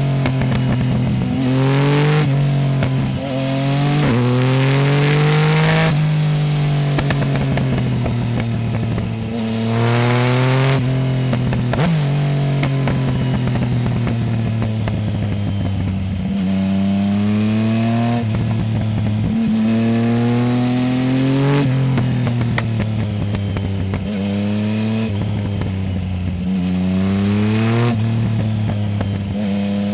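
Yamaha Tracer 900 GT's 847 cc inline-three, breathing through a full Roads Italia aftermarket exhaust without its dB-killer, under hard riding. It revs up through the gears with the pitch climbing and dropping at each shift, then runs down more slowly on the overrun in the middle stretch before pulling up again.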